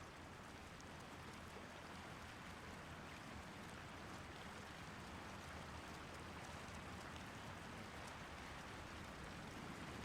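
Creek water flowing steadily, an even rushing.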